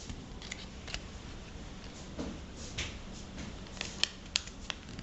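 A sheet of paper being folded and creased by hand: scattered soft crinkles and short crackles, with a few sharper snaps clustered near the end.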